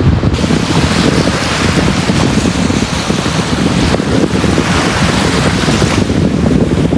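Sea waves washing onto a beach: a steady, noisy rush with a strong low rumble. The hissing wash swells just after the start and eases off near the end.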